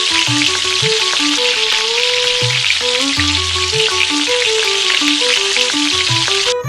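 Food frying in a miniature pan, a steady loud sizzle that cuts off suddenly at the end.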